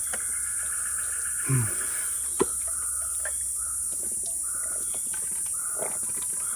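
Rainforest ambience: a steady high-pitched insect drone with repeated shorter mid-pitched calls. About one and a half seconds in there is a short downward-sliding sound, and a second later a sharp click.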